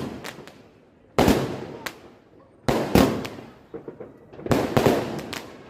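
Fireworks exploding: sharp bangs about every one and a half seconds, each fading away over about a second, with smaller cracks in between and a quick cluster of them near the end.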